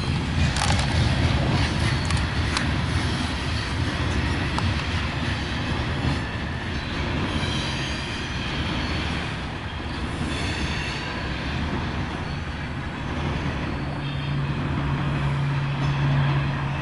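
Loaded coal train's hopper cars rolling past on steel wheels, a steady rumble with a few sharp clacks over the rail joints early on and wheel squeal at times in the middle. A low steady hum rises briefly near the end.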